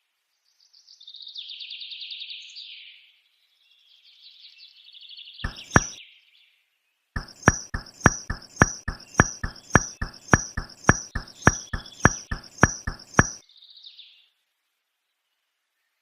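Birds chirping for several seconds, then two sharp clicks, followed by a rapid, even series of sharp clicks or taps, about three a second for some six seconds, that stops abruptly.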